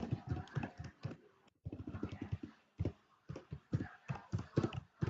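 Typing on a computer keyboard: an irregular run of key clicks and taps, several a second, with a brief pause about a second and a half in.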